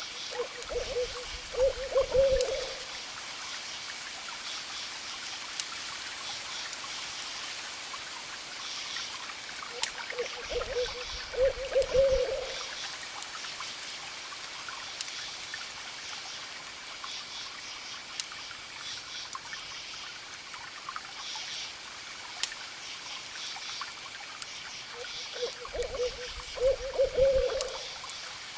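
An owl hooting in three short runs of low hoots, about ten to fourteen seconds apart, these being the loudest sounds. Underneath, crickets chirp steadily, a campfire crackles with scattered sharp pops, and distant waves wash in a soft, even hiss.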